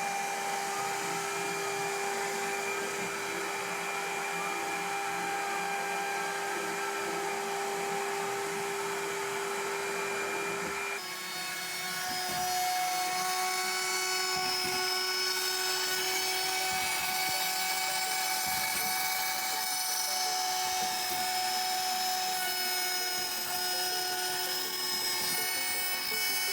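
CNC milling machine at work: the spindle runs with a steady high whine over the noise of the cutter. About eleven seconds in the sound changes abruptly to a different set of whining tones and continues steadily.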